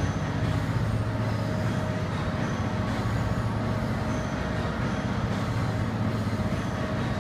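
Steady low rumble and hum of trains standing at a station platform, with no sharp events.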